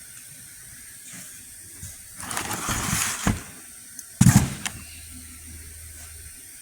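Handling noises from the old AC compressor and its cardboard box: rustling about two to three seconds in, then one loud clunk about four seconds in, with a faint low hum after it.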